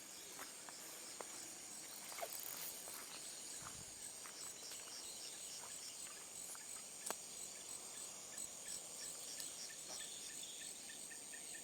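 Night insects chirring: a faint steady high trill with evenly repeating pulses, joined about halfway through by a second, lower chirp repeating at an even pace. A few faint clicks over it.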